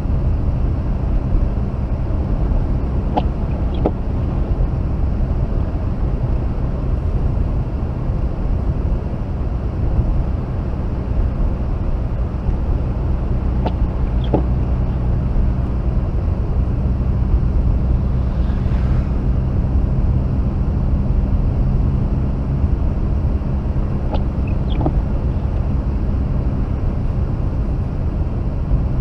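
Interior noise of a Mazda RX-8 with its rotary engine, driving: a steady low engine and road rumble. A pair of short ticks comes about every ten seconds, three times.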